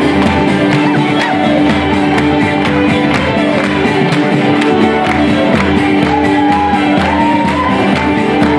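Irish traditional band playing a fast tune live: uilleann pipes, flute, fiddle and guitar, with bones-style spoons clicking a rapid, even rhythm over a steady held drone.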